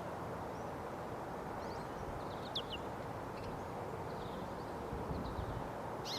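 American goldfinch giving a few short, high chirps and quick falling call notes, the clearest about two and a half seconds in and another right at the end, over steady wind noise.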